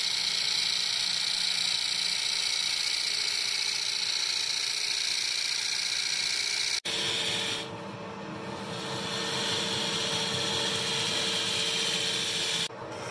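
Steady noise of sawmill woodworking machinery running. It cuts off abruptly about seven seconds in and resumes as a different machine with a steady hum.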